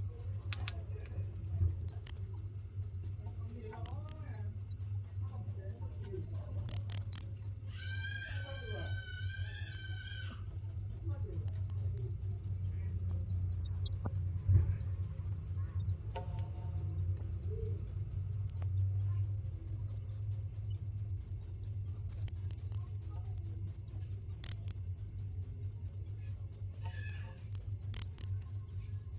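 Cricket chirping in a steady, even rhythm of high-pitched chirps, about three to four a second, with a brief break about eight seconds in.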